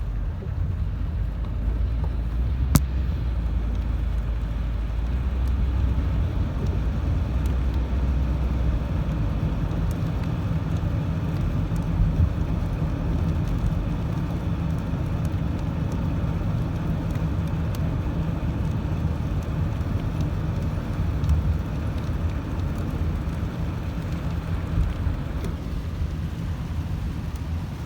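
Rain heard from inside a car: a steady low rumble of the car with a hiss of rain over it and a few sharp ticks of drops.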